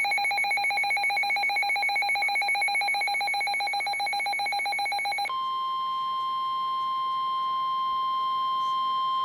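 Emergency Alert System alert tones. A warbling two-tone attention signal runs for about five seconds, then switches abruptly to a steady single-pitch NOAA Weather Radio warning tone, announcing a new severe thunderstorm warning.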